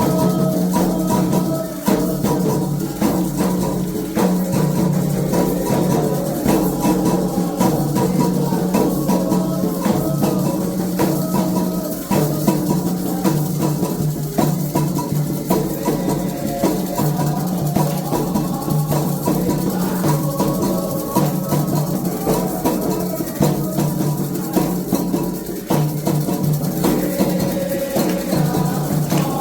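Percussion music with drums and shaken rattles, with a melody line running over a steady low tone.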